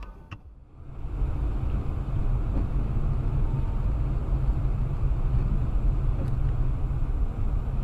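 Steady engine and road rumble of a moving car as a dashcam records it, coming in about a second in after a brief quieter gap.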